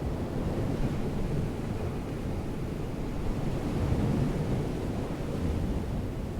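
Wind buffeting the microphone, a steady low rumble that swells and eases, over the wash of surf.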